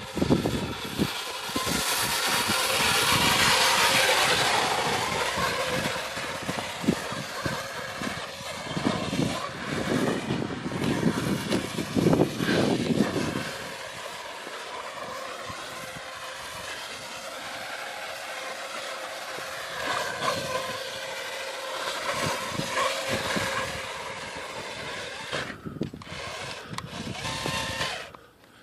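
Electric RC truck's motor whining, its pitch rising and falling with the throttle as it drives over sand, with a rough rumble from the tyres and drivetrain in the first half that drops away about halfway through.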